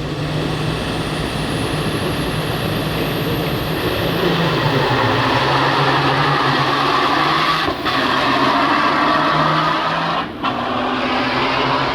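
Diesel engines of modified semi trucks held revved at the start line to spool up their turbochargers, with a high turbo whistle rising during the first few seconds. The sound is loud and steady, with two brief dips in the second half.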